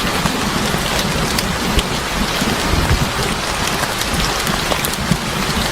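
Steady rain falling as a dense, even hiss, with scattered sharp ticks and pops on top and a low rumble underneath.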